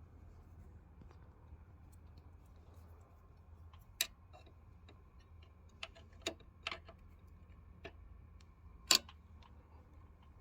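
Multimeter test probes clicking and tapping against the metal terminals of an electrical disconnect: a handful of scattered sharp clicks, the loudest near the end, over a low steady hum.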